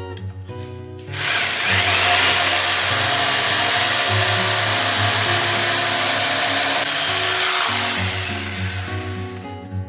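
A power tool runs loud and steady for about seven seconds, starting about a second in and dying away near the end, over background guitar music.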